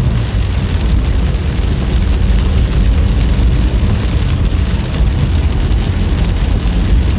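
Heavy rain pattering on a moving car, over a steady low rumble of the car and road.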